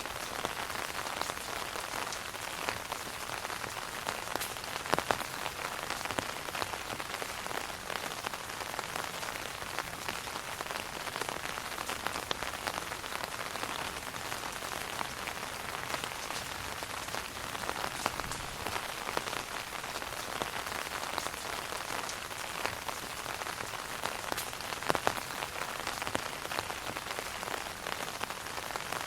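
Rain falling on an umbrella canopy: a steady patter with scattered sharper taps of single drops, a few louder ones here and there.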